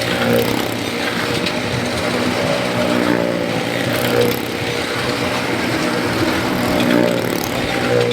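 Motorcycle engines running hard as the bikes circle the wall of a well-of-death drum. The sound swells and eases in turns as they go round.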